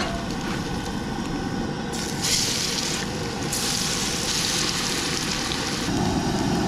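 Potato pancakes frying in hot oil in a pan, sizzling; the sizzle grows louder about two seconds in, over a steady low rumble.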